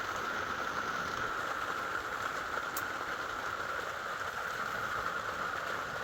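Steady rain with an even rushing hiss, and a single sharp click near the middle.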